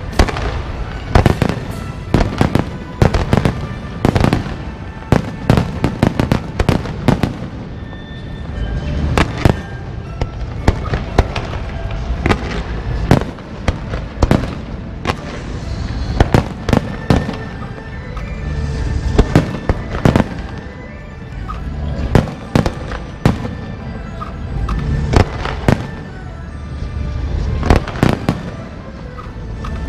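Fireworks and firecrackers going off in a rapid, irregular barrage of sharp bangs, with music playing underneath.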